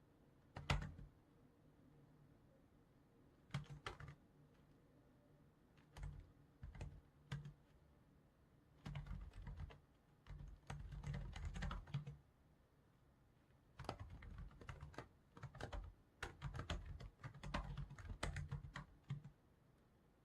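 Typing on a computer keyboard in irregular bursts of keystrokes with short pauses between, the longest run about nine to twelve seconds in and another near the end.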